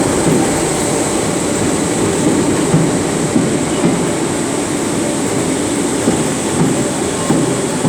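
Merseyrail Class 507 electric multiple unit pair moving through an underground station platform: a steady loud rumble of wheels and traction, with occasional clicks over the rail joints.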